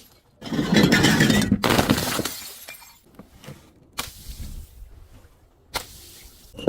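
A glass bottle shattering with a loud crash that fades over a couple of seconds, followed by scattered light clinks of glass shards settling and a couple of sharp ticks.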